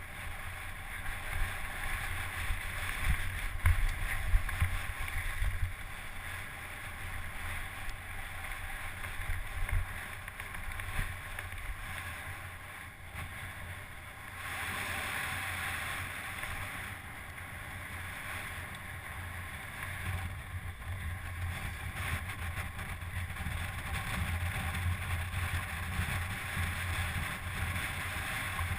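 Wind buffeting a camera microphone over a low rumble while riding fast, as from a helmet or bike camera on a downhill mountain bike run; the rumble swells and eases.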